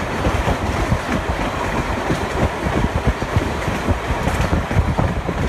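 A moving passenger train heard from on board: a steady rumble and rattle of the cars running on the track, with irregular low thumps throughout.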